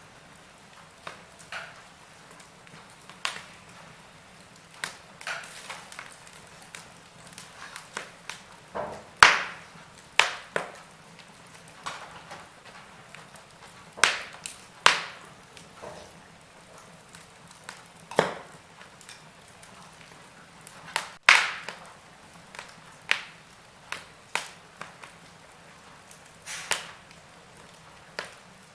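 Wood fire crackling: irregular sharp pops and snaps over a faint steady hiss, with the loudest pops about nine seconds in and about twenty-one seconds in.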